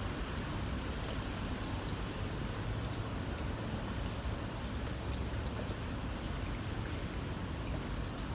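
Light rain falling, a steady hiss with a few faint drop ticks, under a steady low rumble, with a thin, steady, high insect trill.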